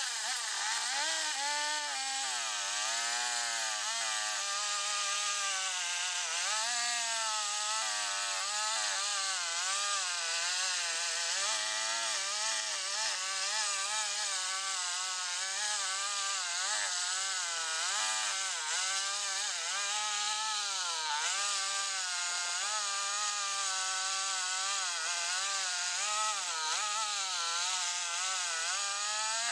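Chainsaw running under load, cutting through the end of a white oak log; the engine note dips and recovers continually as the chain works through the wood.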